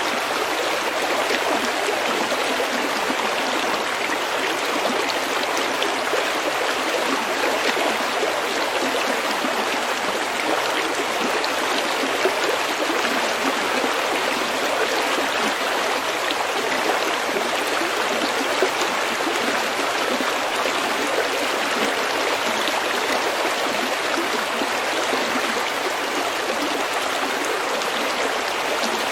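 Shallow stream flowing and babbling over stones, a steady rush with fine splashing and trickling.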